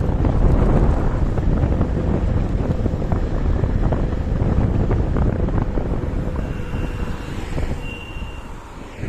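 Wind buffeting the microphone with road rumble from a KuKirin G2 electric scooter in motion, over a faint steady whine. A thin high tone sounds briefly twice in the last few seconds as the noise dies down.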